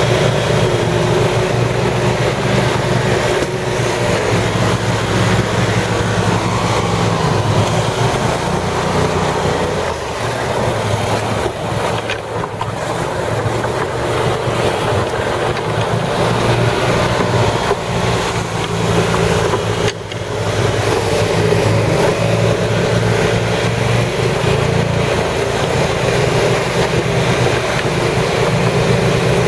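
Amphibious 6x6 ATV engine running steadily under load, with a low engine hum over a wash of noise and brief dips in level partway through.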